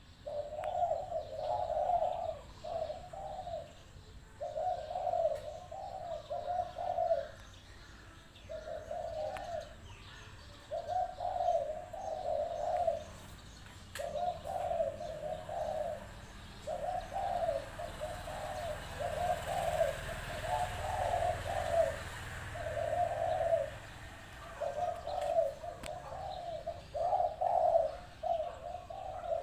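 Spotted dove cooing in repeated phrases, one about every two seconds with short pauses between, calling actively as a decoy bird.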